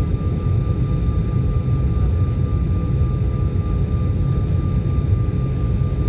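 Steady low rumble of a jet airliner, with a faint steady high whine over it and no change in level.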